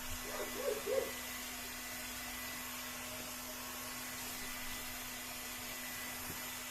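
Hot-air heat gun running steadily, its fan giving an even blowing hiss with a constant hum, while it heats the PVC to soften the old glue.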